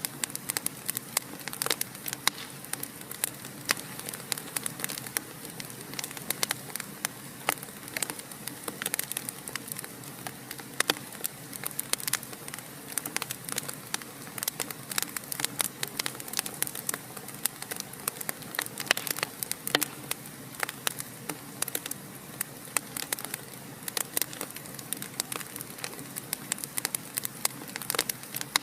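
Wood fire crackling in a fireplace: a dense, irregular stream of sharp pops and snaps over a steady soft hiss.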